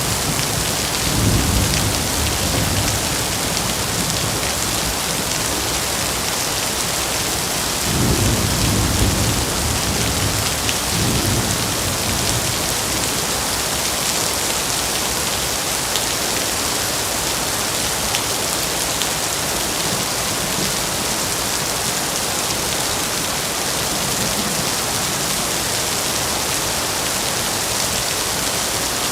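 Steady heavy rain with thunder rolling low, swelling about a second in and again around eight and eleven seconds.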